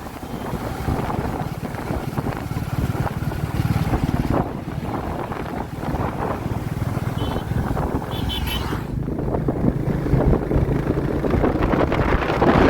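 Royal Enfield Classic 350's single-cylinder engine running under way, its low exhaust thud steady, with wind buffeting the microphone.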